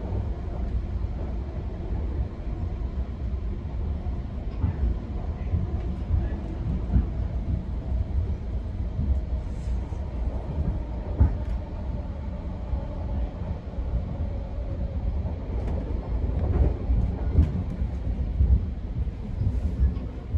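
GO Transit bilevel passenger coach running along the line, heard from inside: a steady low rumble of wheels on rail with scattered short knocks and clicks.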